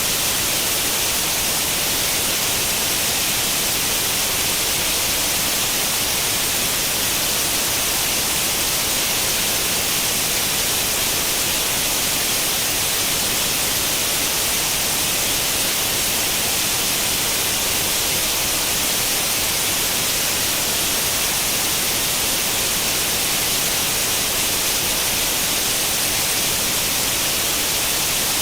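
Steady, unchanging static hiss, brighter and stronger in the high end, like the noise of an untuned tube television with no channel.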